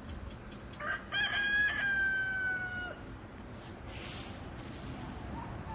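A rooster crowing once, about a second in: a short rise into a long held note that sags slightly at the end.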